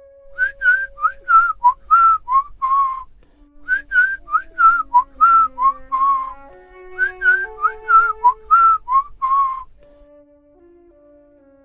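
A short whistled phrase of gliding notes, each struck sharply, played three times in a row over soft, slowly changing woodwind music; the whistling stops about two seconds before the end, leaving the held woodwind tones.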